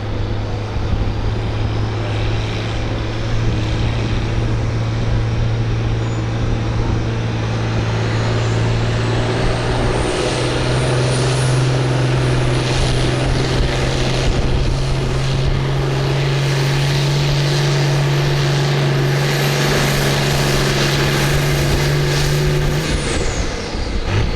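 Farm stock pulling tractor's engine running hard at full throttle, with a thin high whine that climbs slowly and then holds. The engine note steps up in pitch about halfway through and drops away near the end as the run finishes.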